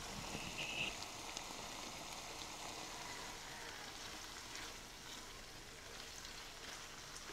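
Luncheon meat and potato cubes in a thick, reducing sauce sizzling and crackling in a nonstick frying pan, with a silicone spatula stirring them in the later seconds. There is a brief high squeak a little under a second in.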